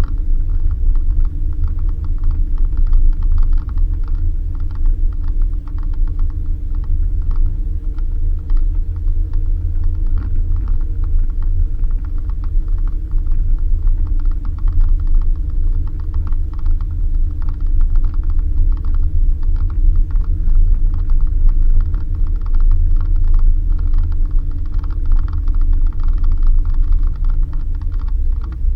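Suzuki Jimny driving on a dirt road: a steady low rumble and engine drone, with constant rapid rattling and clicking from the bumpy ride.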